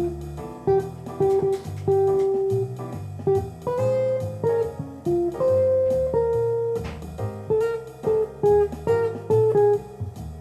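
Guitar music: plucked notes over a bass line, each note starting sharply and fading.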